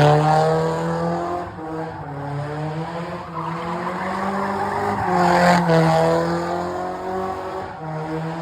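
Car engine revving hard with tyres squealing, as in a drifting stunt; the revs rise and fall in waves, loudest at the start and again about five seconds in.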